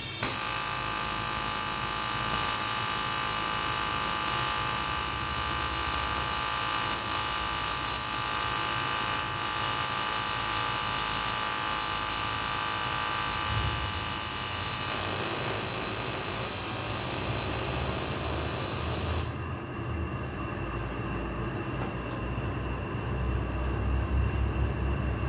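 AC TIG welding arc on an aluminium motorcycle cylinder block, a steady buzz with a high hiss that starts sharply and cuts off about 19 seconds in when the arc is broken.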